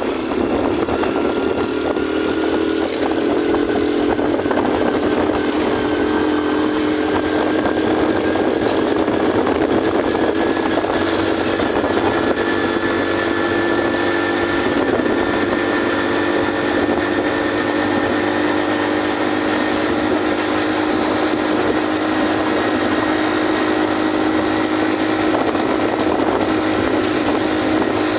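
125 cc motorcycle engine running at speed, over steady wind and road noise. The engine pitch climbs over the first few seconds as it picks up speed, then holds steady at cruise.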